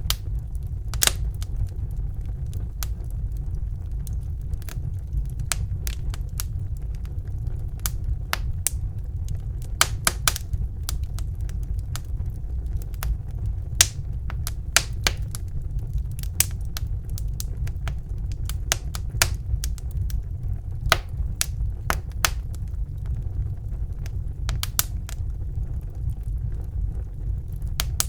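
Fire burning in a fireplace, crackling: irregular sharp pops and snaps, several a second and unevenly spaced, over a steady low rumble of the flames.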